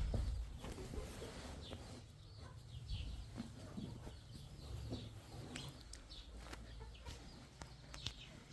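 Chickens clucking in short scattered calls over a low rumble.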